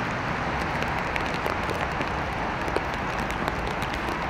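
Steady rain falling: an even hiss with many scattered drops tapping close by.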